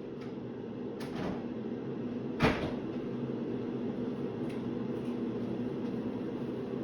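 Steady hum of a running air fryer, with a soft knock about a second in and a sharp knock about two and a half seconds in, like a cupboard or lid being shut.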